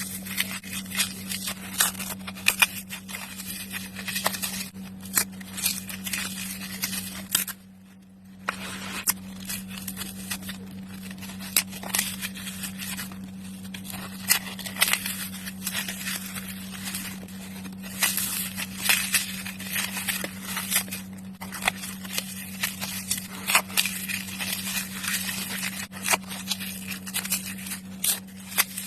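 Dry floral foam being crushed: a dense, crunchy crackle of many small snaps that breaks off briefly about eight seconds in, then resumes. A steady low hum runs underneath.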